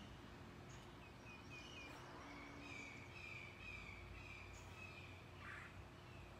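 Faint outdoor background with a bird calling: a quick run of short chirps about a second in, then a string of longer notes, over a low steady hum.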